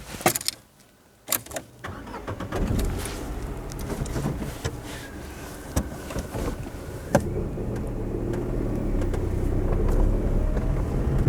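A few clicks and knocks, then a car engine running as the vehicle moves off, its rumble growing steadily louder as it gathers speed.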